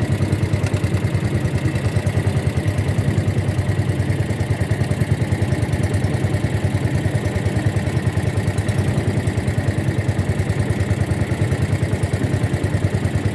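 Boat engine running steadily at an even speed, with a fast, regular pulse.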